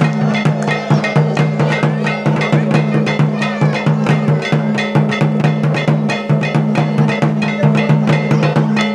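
Dance music: fast, even drum strokes throughout, over a steady low droning tone.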